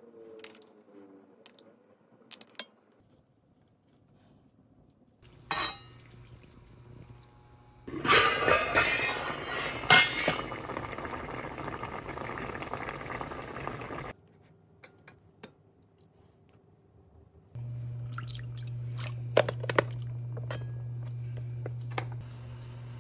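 Kitchen cooking sounds: dishes and utensils clinking, with a loud steady hiss lasting about six seconds, about a third of the way in. Near the end a steady low hum comes on under more clinks.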